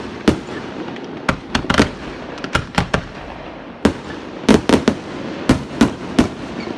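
Fireworks display: a rapid, irregular string of sharp bangs, several a second in places, over a continuous rumble of bursting shells and their echoes.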